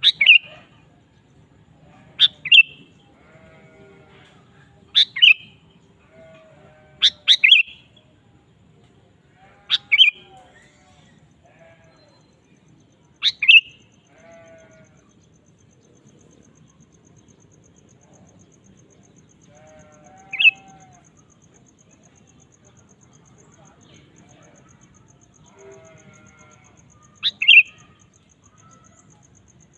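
Sooty-headed bulbul (kutilang) giving short, sharp call phrases of two or three quick notes each, about eight in all, a few seconds apart with a longer pause midway. Fainter, lower bird notes sit underneath.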